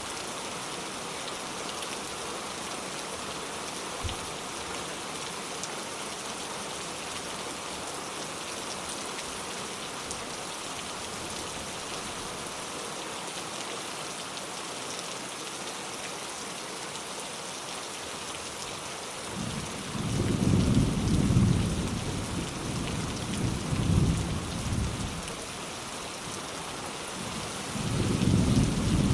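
Steady rain falling, with rolling thunder rumbling in several waves over the last third.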